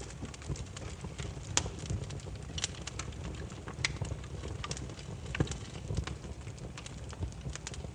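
Firewood burning with irregular sharp crackles and pops over a steady low rumble, the loudest pop about a second and a half in.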